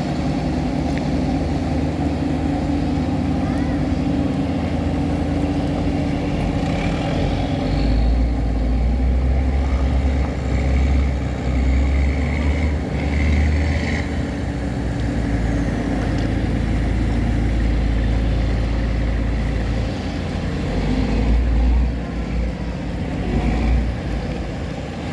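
Tugboat's diesel engine running steadily under load, with a deep rumble that grows heavier from about eight seconds in.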